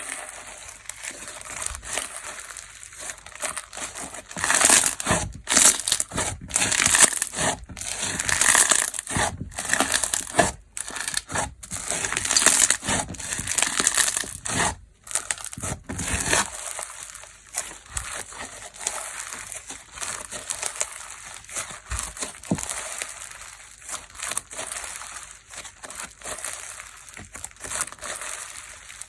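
Textured slime being squeezed and pressed by hand, giving a dense, continuous crackling and crunching sound, the fizzy 'juwa-juwa' texture of this slime. It is louder through the middle stretch, with a few brief breaks.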